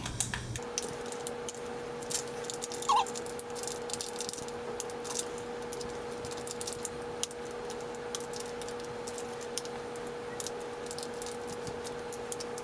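Plastic mystery pin pouch crinkling and rattling with many small clicks as it is handled and worked open, over a steady room hum.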